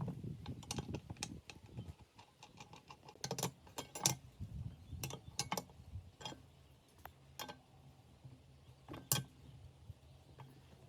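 Irregular light clicks and taps of small hard objects being handled, with a sharper knock at the start and another about nine seconds in. A faint steady low hum runs under the second half.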